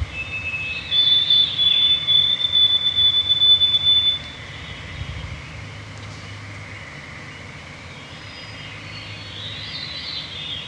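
Evening woodland chorus of birdsong over a steady, continuous frog trill. A high whistled note holds for about three seconds starting about a second in, and short fluty downward-spiralling phrases come about a second in and again near the end.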